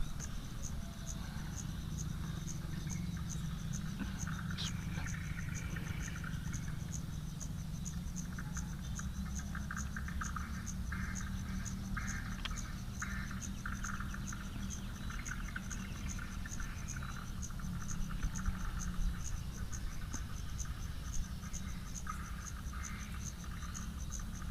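Insect chirping in a steady, evenly pulsed high rhythm that never stops, with a second, patchier buzzing beneath it and a low rumble of wind on the microphone.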